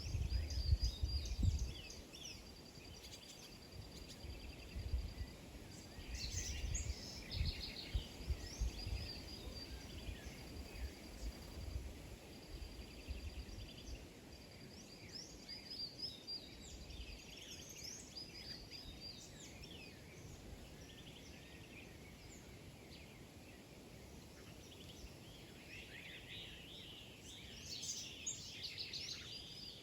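Small birds chirping and calling in quick, short notes, busiest near the end, over a steady high trill at times. Low rumbling noise comes and goes in the first half.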